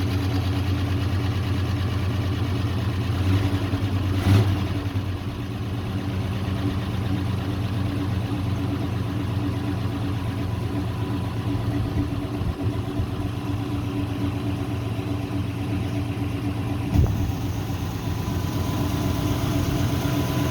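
Dump truck engine running at a steady idle on its newly fitted fuel tank, with a couple of brief knocks about four seconds in and near the end.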